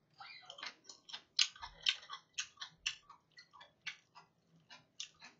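A person chewing a mouthful of food close to the microphone: a run of short wet clicks, several a second, thinning out over the last couple of seconds.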